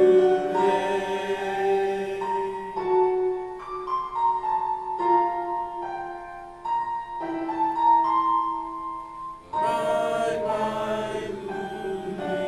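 A choir singing slow, sustained chords, the notes changing about once a second, with what sounds like piano accompaniment.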